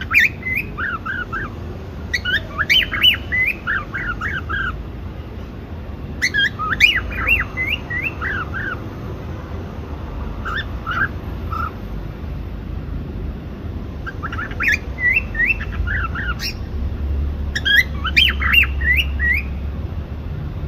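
Cockatiel chirping and whistling in short bursts of quick, swooping notes, a new burst every two to four seconds, over a low steady background rumble.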